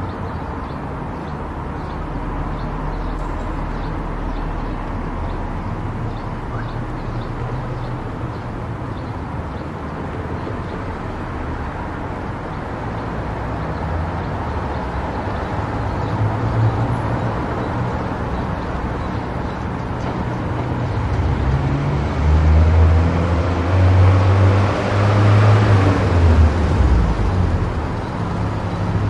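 Car driving at speed on an expressway: steady engine rumble and tyre and road noise, swelling louder for several seconds near the end before easing off.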